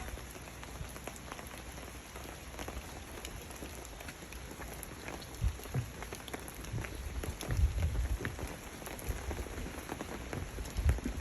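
Rain falling and water dripping onto leaves, many separate drops ticking over a steady patter. A few louder low rumbles come through in the second half.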